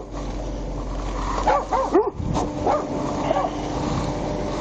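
Dog whining, with about six short cries that rise and fall in pitch, over a steady low hum.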